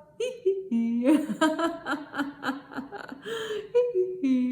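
A woman laughing on purpose as a laughter exercise: a few short notes stepping down in pitch, then a quick run of rhythmic laughing pulses, several a second.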